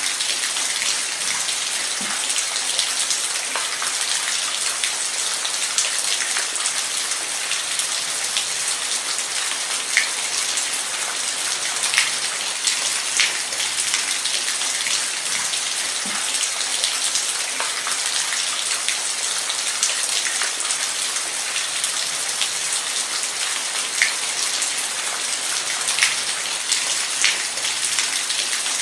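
Steady rain falling, a dense even hiss with scattered louder drips and pattering drops striking a surface.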